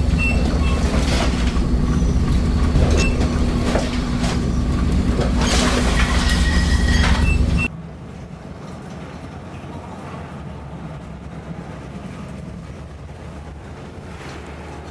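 Steady low mechanical drone with clanks and rattles, typical of a ship's engine and fittings under way. About eight seconds in it cuts off abruptly to a quieter, even rushing noise.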